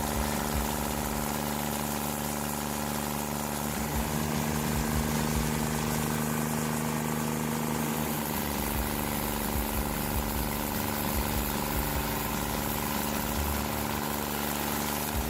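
Stump grinder's engine running steadily at an even pitch.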